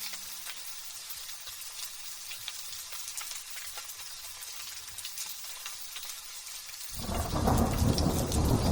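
Light drizzle pattering steadily, with fine drop ticks. About seven seconds in, a loud, low thunder rumble breaks in suddenly and keeps rolling.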